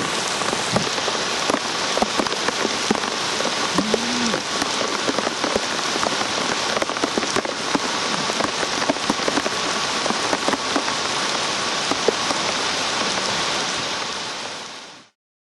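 Steady rain falling, with many close drops striking as sharp taps over a continuous hiss. It fades away near the end.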